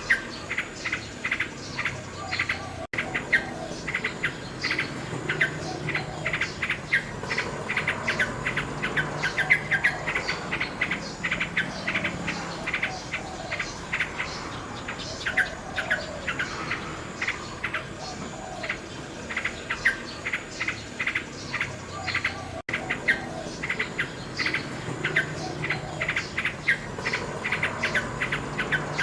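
Nightingale singing: a dense run of rapid, sharp chirps and trills. The sound briefly drops out twice, about three seconds in and about two-thirds of the way through.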